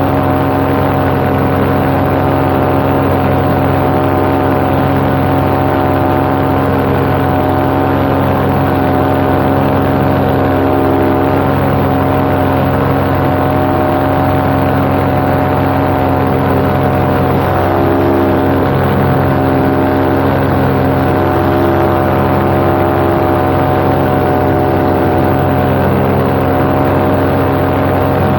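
Paramotor engine and propeller running steadily in cruising flight, a constant drone with no change in speed.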